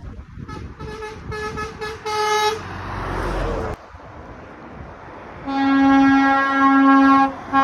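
Lorry horns sounding as trucks pass: four quick toots of a higher-pitched horn, the last one a little longer, then a vehicle passing, then a long, lower-pitched horn blast held for about two seconds with a short break near the end.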